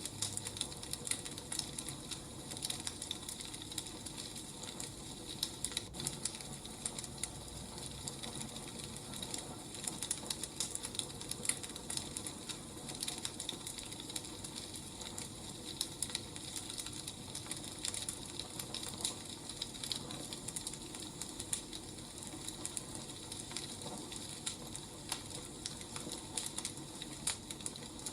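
Wood fire crackling steadily, with many small irregular snaps and pops over a soft hiss.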